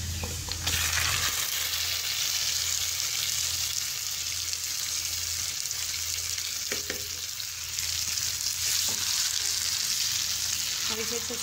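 Marinated chicken pieces sizzling in hot oil and fried onions in a non-stick kadhai, a steady frying hiss, while a silicone spatula stirs them with a couple of light knocks.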